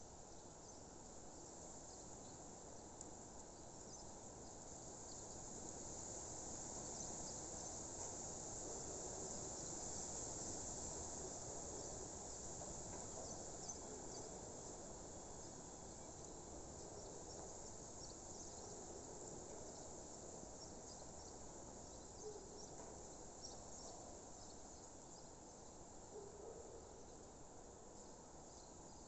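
A faint, steady, high-pitched chorus of chirping insects, swelling slightly around ten seconds in, over a low background hiss.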